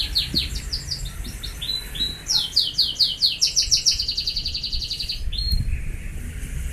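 A small bird singing fast trills of high, downward-sweeping notes, about ten a second, in two runs with a few short notes between, stopping about five and a half seconds in.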